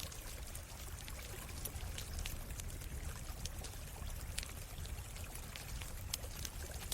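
A flowing stream running steadily, with scattered sharp crackles and pops from a wood campfire.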